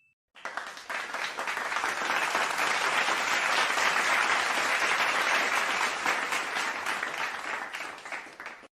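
Audience applause sound effect: a crowd clapping, starting about half a second in, holding steady, then fading away near the end.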